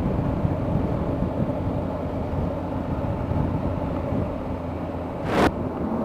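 Motorcycle riding at road speed: a steady engine hum under wind noise on the rider's microphone, with a short, loud rush of noise about five seconds in.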